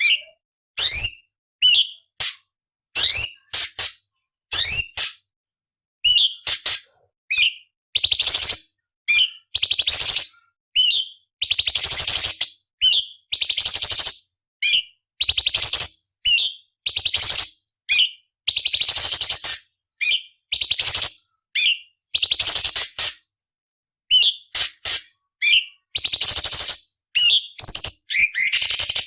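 Cucak cungkok leafbird singing short repeated phrases about once a second: a quick whistled slur, then a harsh, scratchy rasp, the rough chattering fill of its song. Some rasps near the middle and toward the end run longer and louder.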